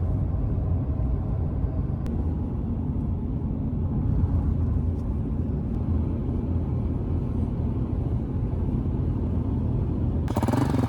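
Steady low engine and road rumble inside a moving vehicle's cabin. Near the end it cuts abruptly to a louder motorcycle engine running with a rapid firing beat.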